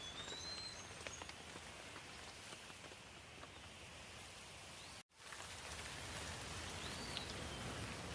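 Steady rain falling, with scattered individual drops ticking. A short whistled chirp, likely a bird, sounds at the start and again near the end, and the rain cuts out for a split second about five seconds in.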